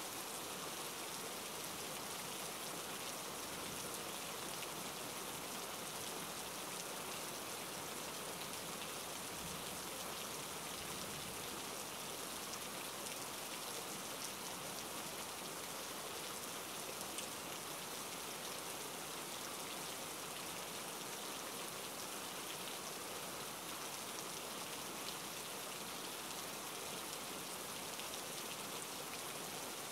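Rain falling steadily, an even hiss of many small drops pattering on surfaces and water.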